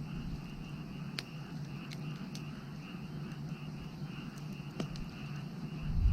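Firewood burning with a steady low rush and about four sharp crackling pops, over a chorus of frogs calling in a quick, even pulse.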